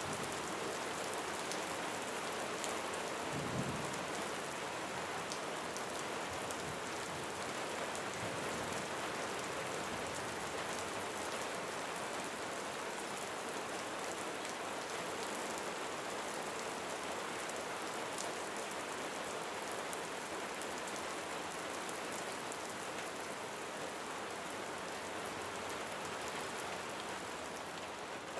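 Steady rain falling on a roof, with individual drops ticking through the hiss. About three seconds in, a brief low rumble of small thunder.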